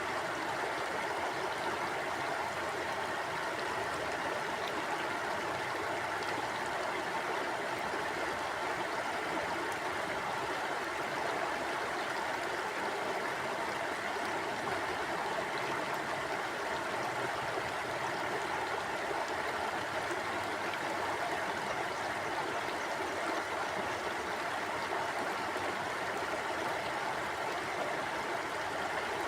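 Mountain stream flowing steadily over rocks, an even rushing and gurgling of water with no breaks.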